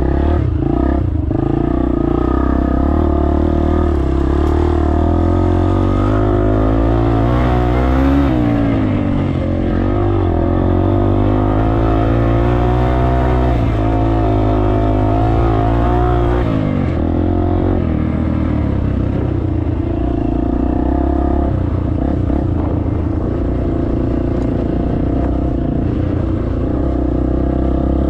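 Dirt bike engine running under changing throttle, its pitch rising and falling, then dropping sharply about two-thirds of the way through and running lower and steadier.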